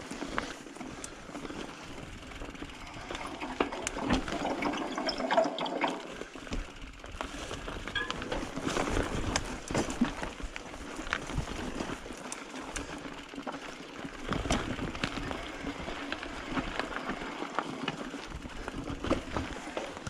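Mountain bike being ridden over a dirt trail: a steady rush of tyre and rolling noise with many short knocks and rattles as the bike goes over bumps.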